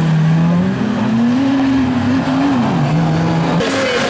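Banger racing car engines revving, their pitch rising and falling.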